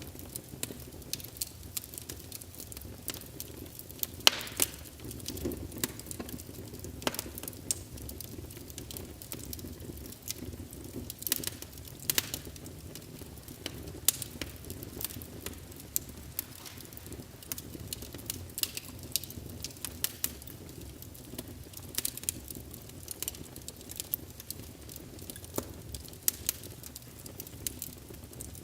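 Wood fire in a fireplace, logs burning with a steady low rumble and frequent sharp, irregular crackles and pops; the loudest pop comes about four seconds in.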